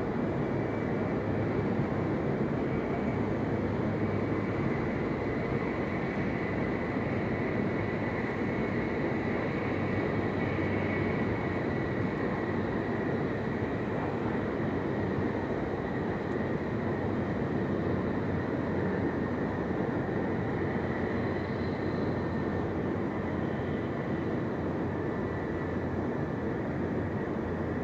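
Cabin noise inside a JR East E7 series Shinkansen running between stations: a steady rumble of running gear and air rushing past, with a faint high whine above it.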